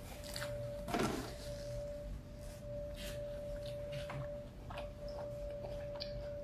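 Close-up chewing of a soft taco: short wet mouth clicks and smacks, one louder about a second in. A constant steady tone hums underneath.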